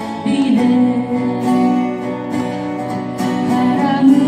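Live band music: a singer holds the closing words "기다리네" over strummed acoustic guitar.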